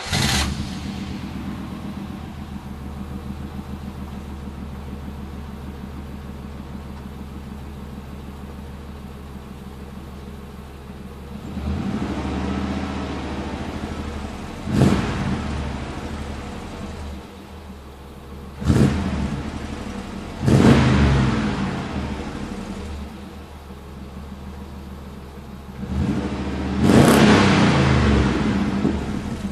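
1997 GMC Sierra pickup's engine through a dual exhaust, idling steadily and then revved several times. Most revs are short blips, with a longer rev near the end.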